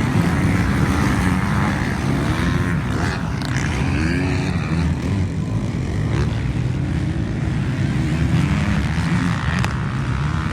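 Motocross bike engines running on the track, revving up and down with several rising and falling pitch sweeps as riders throttle through the course.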